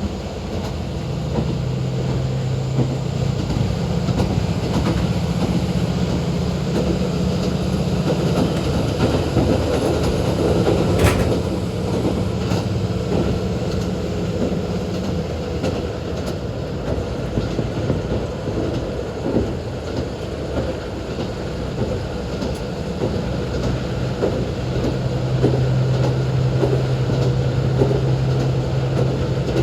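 Inside a JR Hokkaido KiHa 40 diesel railcar running along the line: the diesel engine drones under power, drops away about halfway through so that mostly the wheels and rail rumble are heard, and comes back under power near the end.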